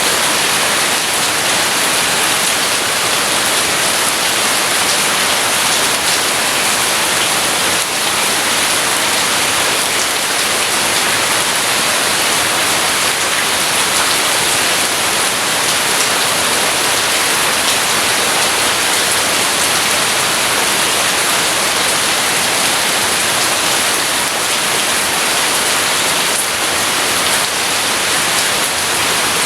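Steady, heavy rain pouring down, an even unbroken hiss with no thunder heard.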